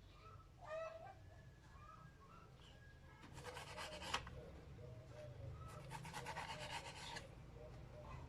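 Two bouts of rapid scraping, each about a second long, with faint bird chirps near the start.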